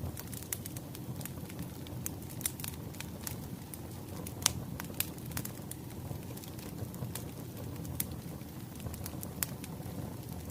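Burning firewood crackling: a steady low rumble of the fire with irregular sharp pops, the loudest about four and a half seconds in.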